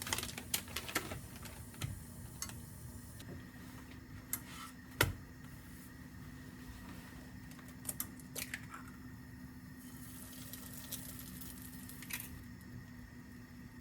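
Scattered light clicks and taps of objects being handled, with one sharper knock about five seconds in, over a steady low hum.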